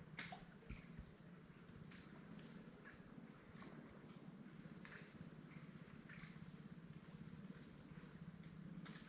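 Rainforest insects droning: one continuous, unbroken high-pitched buzz, with a low hum underneath and a few faint ticks.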